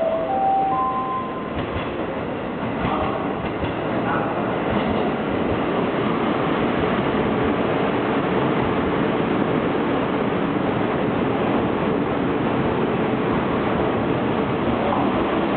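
A three-car train of KiHa 40 and KiHa 48 diesel railcars, powered by Cummins diesel engines, running along the track. It grows louder over the first few seconds and then holds a steady, heavy rumble.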